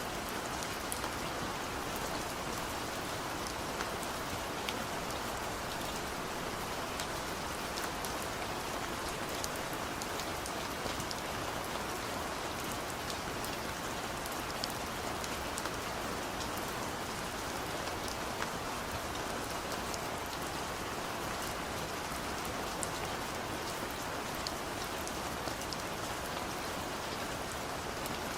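Steady rain falling: an even hiss with many small scattered drop ticks, unchanging throughout.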